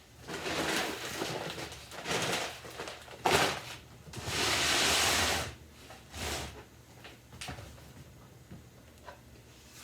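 An old kitchen table being slid and knocked back into place on the floor: several scrapes and shuffles, a sharp knock about three seconds in, and a longer scrape lasting about a second just after.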